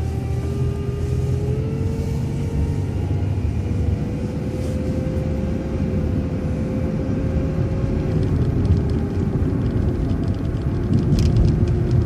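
City transit bus's engine and drivetrain pulling away and accelerating, with a whine that climbs slowly in pitch and then drops about eight seconds in as the transmission shifts up, over a steady low rumble.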